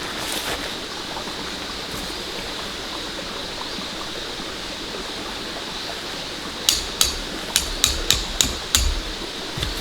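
Steady rain hiss, then from about two-thirds of the way in, a quick run of about eight hammer blows with a dull thud to each.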